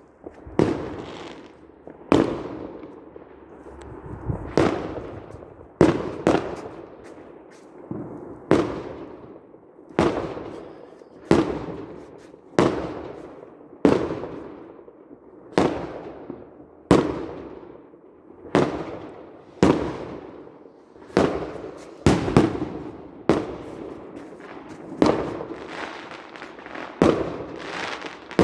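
Fireworks going off in a steady run: a sharp bang about every second to second and a half, each dying away in a rumbling tail.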